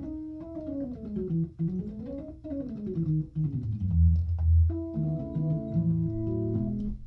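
Hammond A100 organ through a Leslie Model 45 speaker playing the E major scale with both hands an octave apart, stepping up and back down twice over low bass notes. It ends on a chord held for about two seconds.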